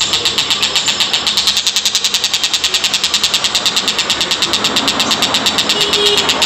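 Tengkek Buto kingfisher giving a rapid, steady chattering call, about ten high notes a second, unbroken throughout.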